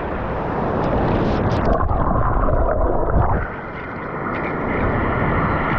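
Muffled, rumbling churn of surf heard with the camera under the water, with a faint steady hum through the second half.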